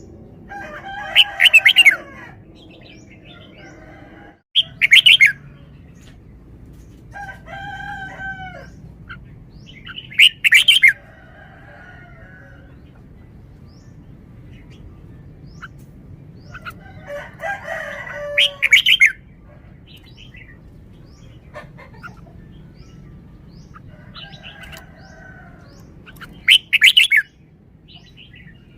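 Red-whiskered bulbul singing: five loud, short whistled phrases a few seconds apart, with softer warbling phrases between them.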